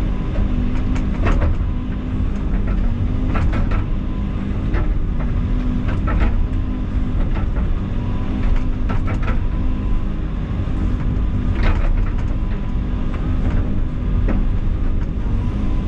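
Excavator's diesel engine running steadily under work, with scattered short knocks and clanks as the machine works roots and debris.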